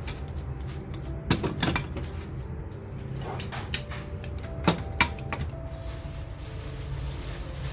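Kitchen clatter of things being handled and put away: a few sharp knocks and clicks, two close together about a second and a half in and two more about five seconds in, over faint background music.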